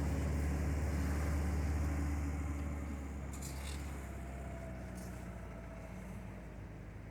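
A motor vehicle engine running with a steady low rumble that slowly fades.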